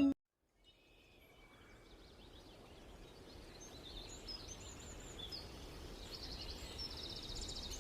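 Canary chirping and trilling over a faint outdoor background that fades in after a moment of silence. The song grows louder, with a fast trill of repeated high notes near the end.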